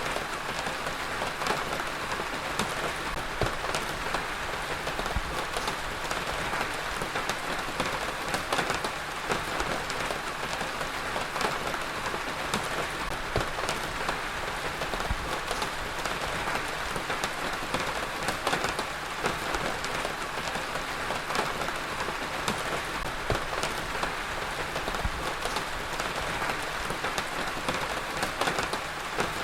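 Heavy rain falling steadily on a surface, a dense even hiss with many individual drop hits scattered through it.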